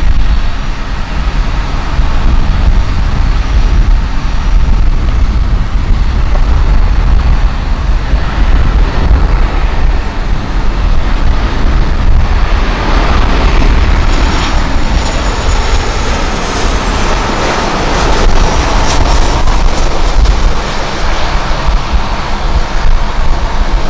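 Jet airliner flying past on a landing approach. Its engine noise swells from about halfway through, with a high engine whine, over a heavy low rumble of strong wind on the microphone.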